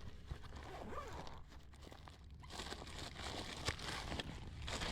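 Faint rustling and small clicks of equipment and packaging being handled, a little busier in the second half.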